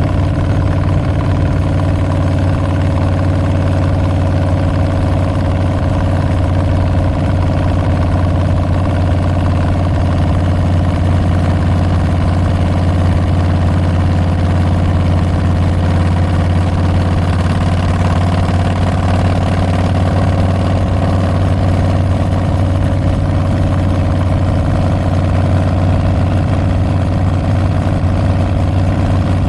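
2022 Harley-Davidson Street Bob's Milwaukee-Eight 114 V-twin running through Tabs Performance slip-on mufflers with Zombie baffles: a loud, deep exhaust note holding a steady pitch, with no sharp revving.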